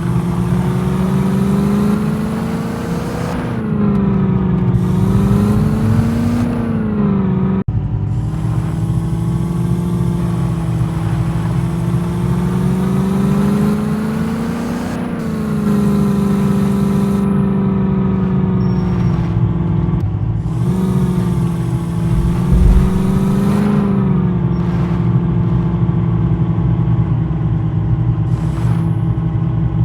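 Jeep engine running steadily while driving, its pitch rising and falling several times as it picks up speed and eases off.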